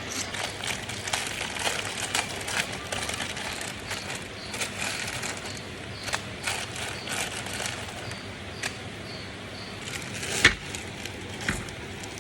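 Food-preparation handling noise: irregular clicks, crinkles and rustling, with one sharp knock about ten and a half seconds in.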